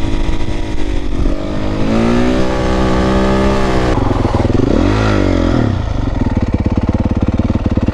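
Dirt bike engine revving up and down, with a quick blip about five seconds in, then settling to a lumpy idle.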